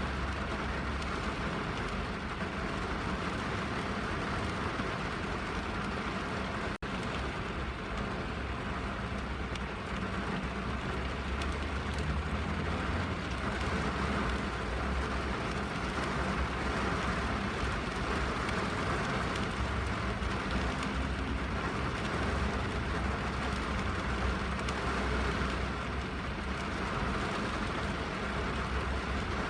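Rain falling on a car's roof and windows, heard from inside the cabin: a steady hiss over a low rumble. The sound briefly cuts out about a quarter of the way in.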